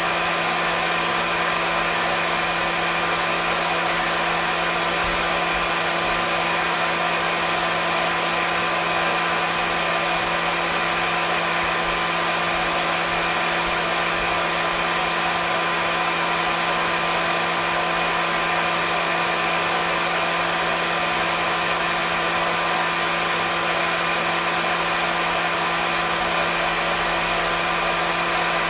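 Hair dryer running continuously: an unchanging rush of air with a steady motor hum underneath.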